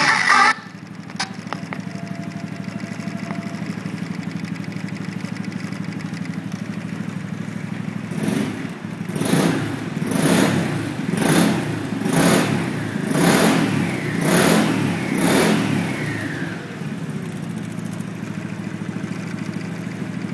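Honda Fusion 250cc single-cylinder scooter with an aftermarket muffler idling, then blipped about seven or eight times, roughly once a second, each rev rising sharply and dropping back, before settling to idle again.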